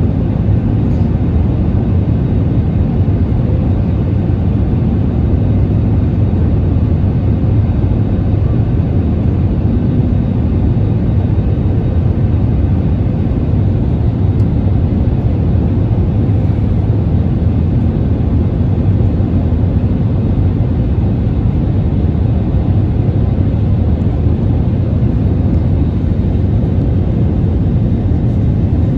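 Steady cabin noise inside an Airbus A320neo: its CFM LEAP-1A26 turbofans and the airflow past the fuselage make a loud, even, low rumble that does not change.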